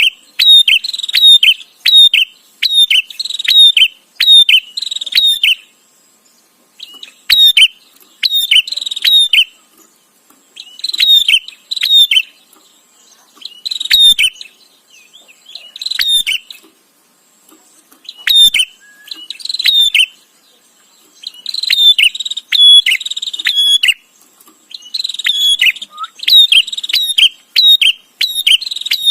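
Prinia (prenjak) chattering: bursts of rapid, sharp chirping notes, several a second, broken by short pauses of a second or two. A faint steady high-pitched tone runs behind the calls.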